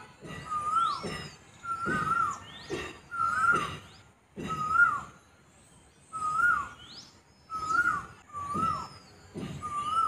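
Birds calling: a short whistled note that rises then drops, repeated about once a second, with higher sweeping calls above it. A dull rushing noise comes with many of the calls, and there is a brief lull about halfway through.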